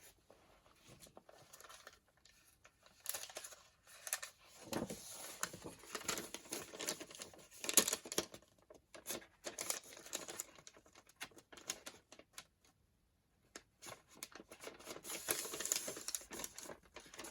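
Sheets of paper being handled and shifted on a work surface: irregular rustling and crinkling with light taps and clicks, starting about three seconds in.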